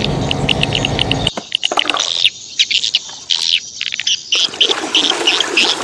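Small birds chirping in a quick, even series of high notes. Under them, a steady low rushing noise with a hum in it cuts off suddenly about a second in.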